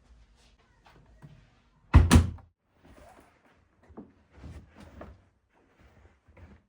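A sharp double bang about two seconds in, followed by lighter knocks and rustling of things being handled.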